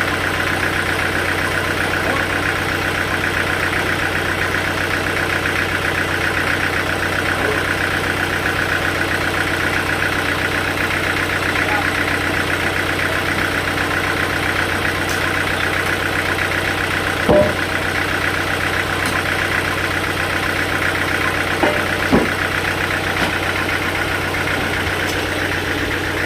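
Sawmill machinery running with a steady motor drone and a fast, even low pulsing, with a few short knocks in the second half.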